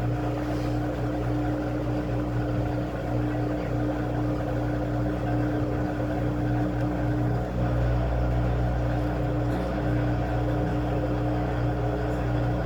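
Washing machine running with a steady motor hum and a constant low drone.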